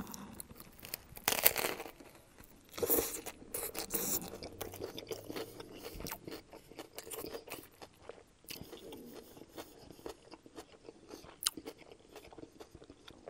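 Close-up eating sounds of a toasted Subway sub with chips tucked inside: crunchy bites and chewing. The loudest crunches come about a second and a half in and again about three seconds in, followed by lighter crackling chews.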